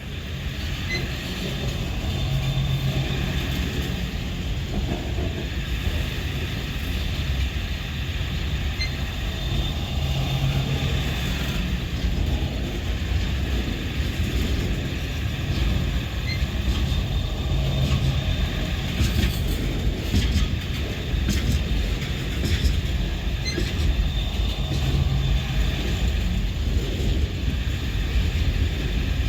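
Freight train cars rolling past at close range: a steady, continuous low rumble of steel wheels on rail.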